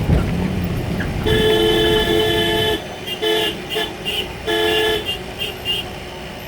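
Heavy truck's horn honking: one long blast, then a string of short toots and another long blast, with a few more short toots near the end. A low engine rumble under the first blast drops away about three seconds in.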